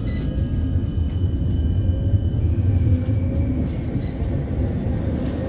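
A CAF Urbos 3 tram on the move, heard from inside the passenger saloon: a steady low rumble of wheels on rail, with a faint electric traction motor whine that shifts in pitch as the tram pulls away from a stop.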